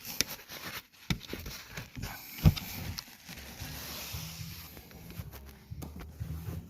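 Irregular knocks and clicks, the loudest a single sharp knock about two and a half seconds in, with a low steady hum in the second half.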